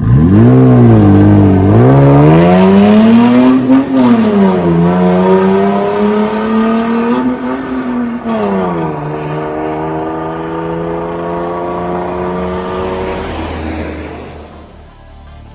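Toyota 1GR-FE 4.0-litre V6 running through an MS-R valved exhaust muffler. The revs climb and drop back twice, then hold steady before the sound fades near the end.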